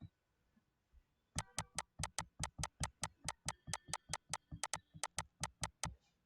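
A quick run of sharp clicks or taps, about five or six a second, starting about a second and a half in and stopping just before the end.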